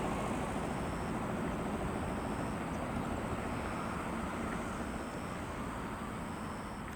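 Heavy diesel truck engine running as the truck drives off, a low rumble that slowly fades.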